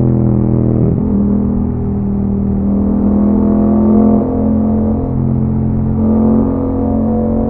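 Yamaha MT-07's parallel-twin engine running through an Akrapovič exhaust while riding. There is a brief break in the engine note about a second in, like a gear change, then it holds fairly steady revs with slight rises and dips.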